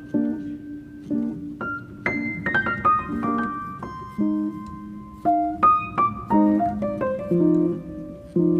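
Calm solo piano music: soft repeated chords with single notes over them, and a quick rising run of notes about two seconds in.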